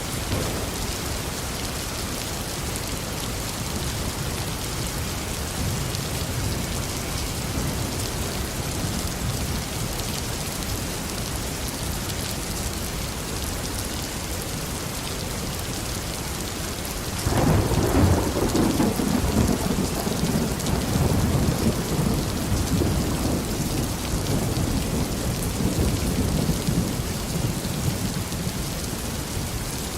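Steady heavy rain falling on a garden, with a roll of thunder breaking in suddenly a little past halfway and rumbling on for several seconds as it slowly fades.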